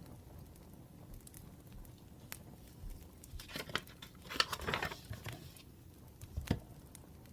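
Paper rustling for about two seconds near the middle, like a page being handled or turned, over sparse crackling clicks of a wood fire. A single soft knock follows near the end.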